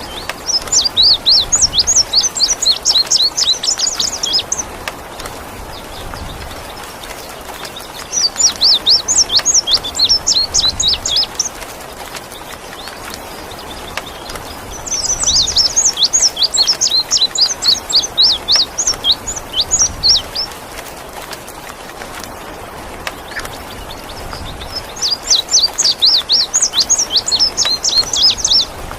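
A songbird singing in four bursts of rapid, high chirping notes, each lasting a few seconds with pauses between, over a steady hiss of rain water.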